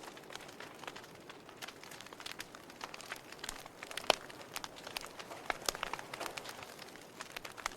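Wood fire burning in a fireplace: irregular crackles and sharp pops over a soft steady hiss, with the loudest pop about four seconds in.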